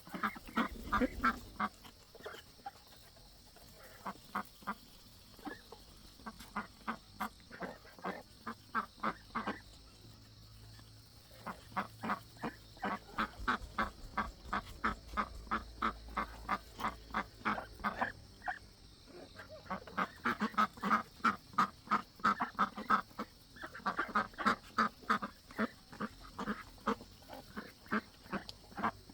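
Domestic ducks quacking, many rapid calls in runs with short pauses between.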